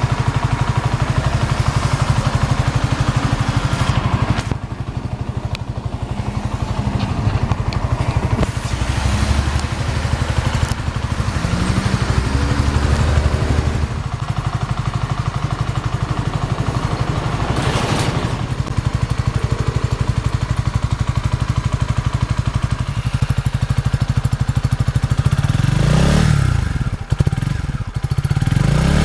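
2018 Honda CB125R's single-cylinder four-stroke engine idling through the stock muffler, then revved twice near the end, each rev rising and falling back to idle.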